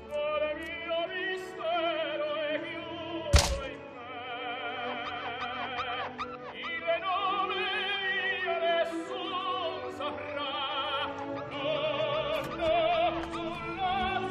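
Operatic singing with heavy vibrato over orchestral accompaniment. A single sharp thump cuts through about three and a half seconds in.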